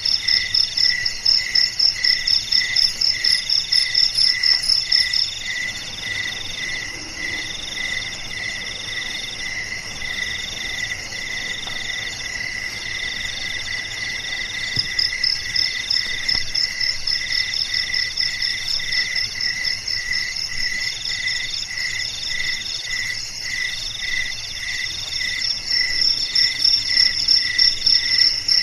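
Chorus of crickets and other calling insects, several calls layered at once. A short chirp pulses about twice a second, trills of about a second repeat with short breaks, and a higher, faster pulsing drops out about five seconds in, returns midway and grows louder near the end.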